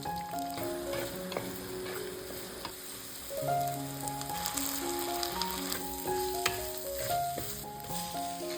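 Food sizzling as it fries in a pan, stirred with a spoon that scrapes and clicks now and then, under a light background melody.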